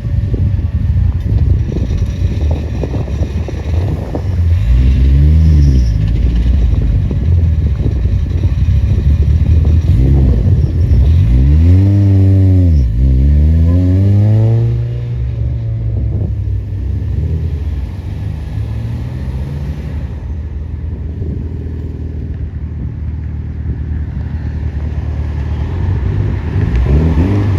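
A car engine running and being revved: a short rev about five seconds in, a bigger one around twelve seconds in that climbs and falls back, steady running after that, and another rev near the end.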